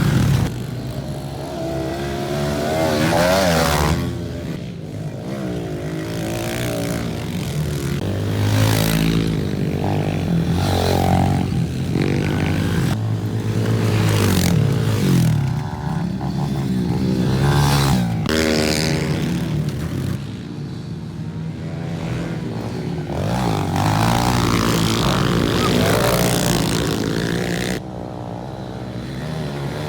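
Pit bike engines revving up and falling off again and again as the bikes ride laps, the pitch rising and dropping every few seconds.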